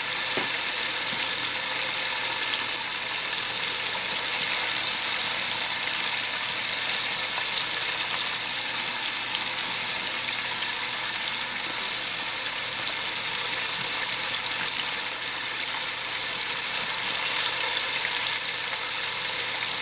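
Chicken pieces frying in hot oil, about 335°F, in an open pressure cooker: a steady sizzle and hiss. This is the browning stage, before the lid goes on for pressure frying.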